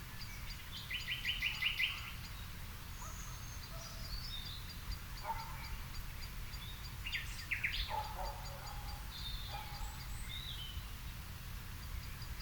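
Several wild birds calling and singing in an evening garden: a quick trill of about six notes near the start, then scattered chirps and short whistled notes, with a faint high call repeated about three times a second throughout. A steady low rumble sits underneath.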